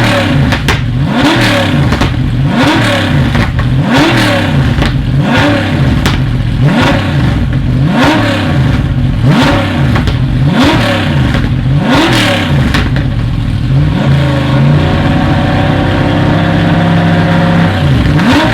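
Brabham BT62's 5.4-litre V8 being revved again and again, the pitch rising and dropping back about once every second and a half. Near the end it is held steady at higher revs for a few seconds.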